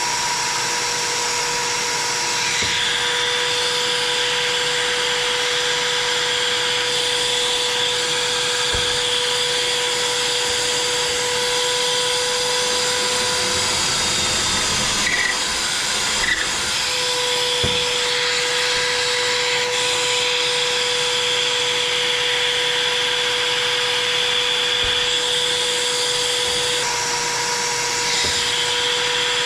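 An electric woodworking machine or power tool running steadily, with a constant whine over a broad motor noise. The whine drops out for a few seconds midway, with a couple of light clicks.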